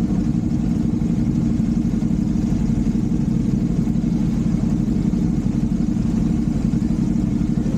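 Kawasaki Z400's parallel-twin engine running steadily at an even pitch, with no revving.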